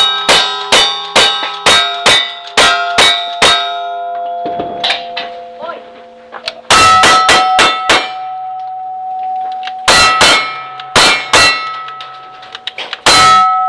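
A string of gunshots in a cowboy action shooting stage, each hit answered by steel targets ringing at different pitches. There is a fast run of about ten shots at the start, then pauses and several shorter groups of shots with ringing plates.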